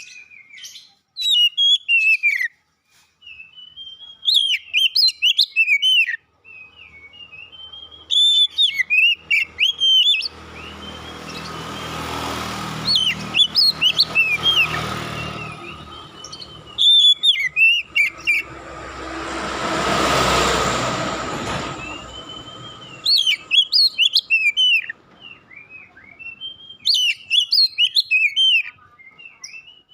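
Oriental magpie-robin (kacer) singing in repeated short bursts of quick whistled notes that sweep up and down. Twice in the middle a rushing noise with a low rumble swells and fades, partly covering the song.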